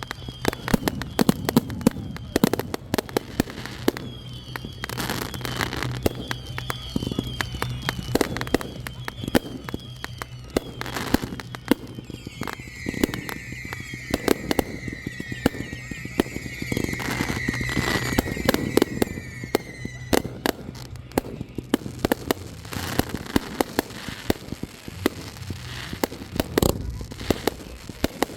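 Fireworks going off in quick succession: many sharp bangs and crackles, with runs of short, repeated high chirping tones through the middle.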